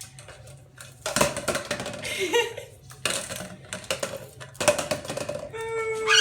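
An empty bottle clattering and scraping across the floor in three bursts as a Goffin's cockatoo fetches it. A held vocal note sounds near the end.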